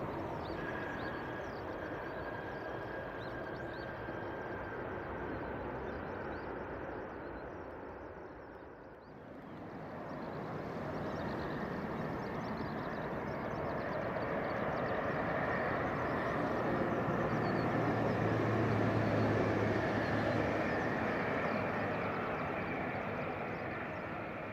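Jet airliner engines on landing approach. The noise dies down about nine seconds in, then builds again to its loudest shortly before the end, with a low hum at the peak, and eases off.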